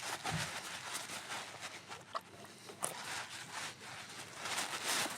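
Wood campfire burning: scattered sharp crackles and pops over a steady hiss, with the hiss growing louder near the end.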